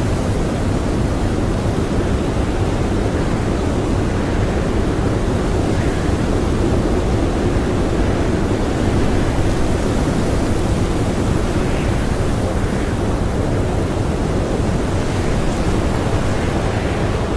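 Strong blizzard wind blowing steadily, a dense rushing noise heaviest in the low end.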